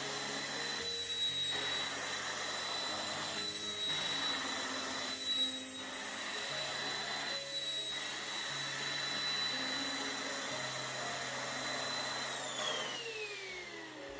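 BOLDe Super Hoover Mite Crusher handheld mattress vacuum running, a steady high whine over its suction hiss. About twelve seconds in, the whine falls in pitch as the motor spins down.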